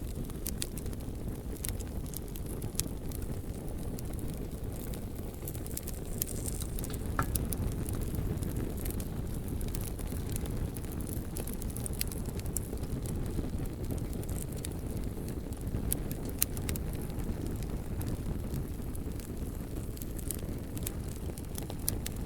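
Bonfire burning: a steady low rumble of flames with scattered sharp crackles and pops from the burning wood.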